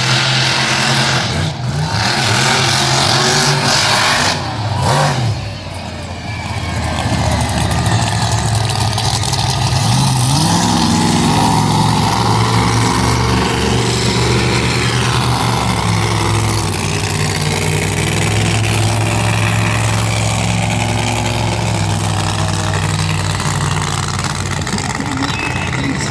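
Monster truck engine running loud, with a rise in revs about ten seconds in, then held at high revs.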